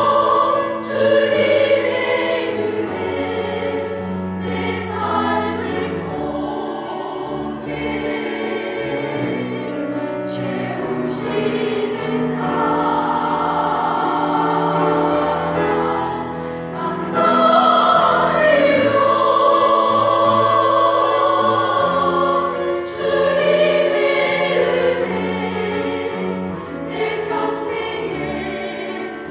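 Small church vocal ensemble singing a gospel hymn in parts with instrumental accompaniment, holding long notes.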